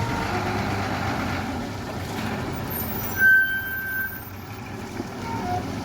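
Heavy truck engine running with a steady low rumble, with a short sharp burst a little after three seconds followed by a brief steady high tone.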